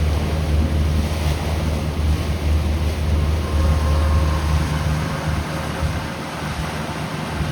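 Wind buffeting the microphone with a low rumble, over the wash of sea water around a small fishing boat.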